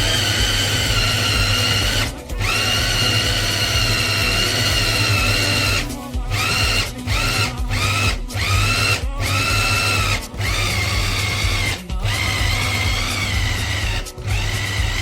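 Small electric food chopper motor running with a steady high whine. It stops briefly about eight times, the motor spinning back up after each stop, as the button is pulsed.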